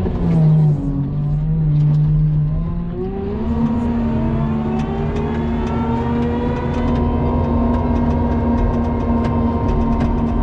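Cat 926 wheel loader's diesel engine working a wing plow through snow: its note sinks for the first few seconds, then revs up about three and a half seconds in and holds high and steady under load. Sharp ticks come and go through the second half.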